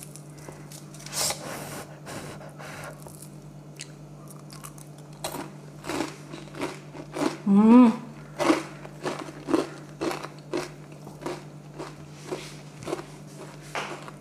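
A person biting into and chewing a crisp deep-fried malpua: one crunching bite about a second in, then steady crunchy chewing, about two crunches a second, from about five seconds on. A short hummed 'mmm' comes partway through the chewing.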